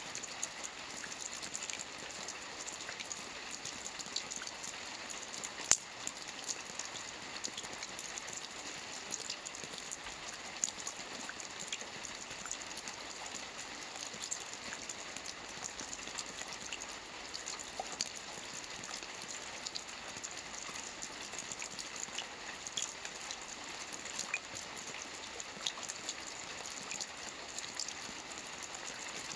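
Soft rain falling on a roof: a steady patter of many small drops, with one louder tick about six seconds in.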